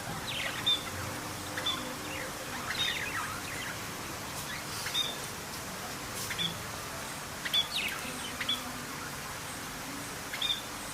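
Parrot giving short, sharp chirping calls every second or two over a steady background hiss.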